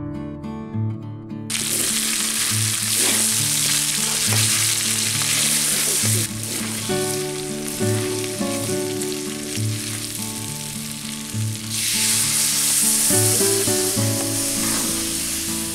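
Chicken pieces in spice paste sizzling in hot oil in a metal karahi, being fried down (kosha) and stirred with a metal spatula. The sizzling is loud, thins for a few seconds in the middle, then swells again near the end as water is poured in. Acoustic guitar music plays underneath.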